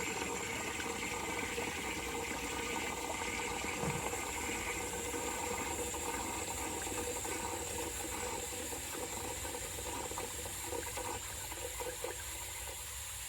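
Water running steadily into a 1940s W & J Lawley 402 cast iron toilet cistern as it refills, a continuous hiss that eases slightly near the end.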